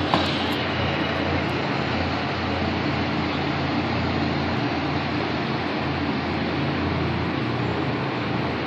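Steady vehicle rumble and road noise, unchanging throughout, with one short click just after the start.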